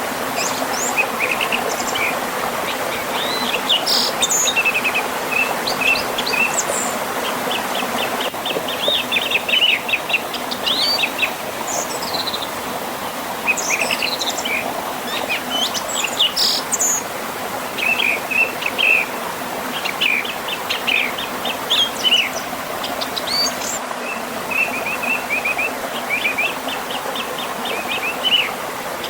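Steady rush of a river flowing over a small waterfall, with several birds singing over it in repeated short chirps and quick trills.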